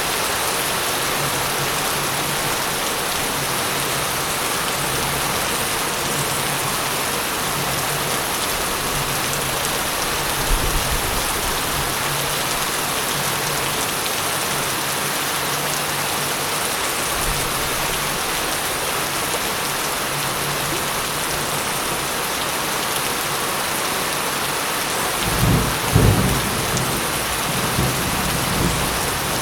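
Steady heavy rain falling, an even hiss, with a short low rumble of thunder about ten seconds in and a louder roll of thunder near the end.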